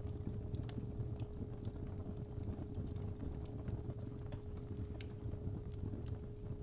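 Fireplace fire crackling, with scattered sharp pops over a low steady rumble, mixed with a continuous 417 Hz tone.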